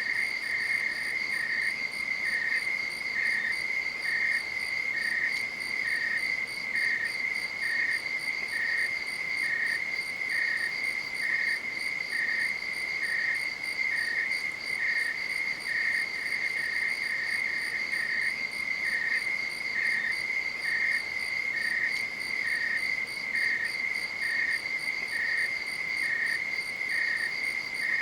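Night insects chorusing: a steady high trill, with a second, slightly lower chirp repeating about once a second.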